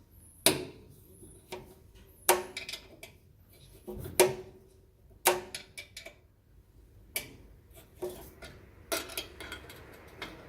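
Sharp metallic clinks and knocks, about eight of them at irregular intervals, several with a brief ring: hand tools and steel parts of a pellet stove knocking together while its auger assembly is dismantled.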